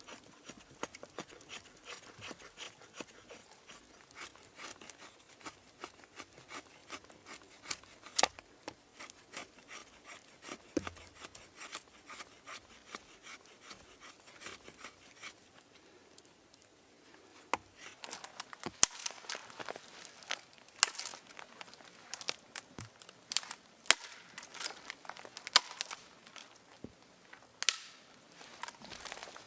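Irregular crackling and crinkling, a run of sharp clicks and rustles. They die down briefly a little past the middle, then come back thicker and louder.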